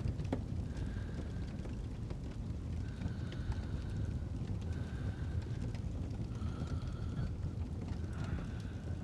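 Fireplace fire burning with a steady low rumble and scattered small crackles and pops. A faint high whistling tone, about a second long, comes back every couple of seconds.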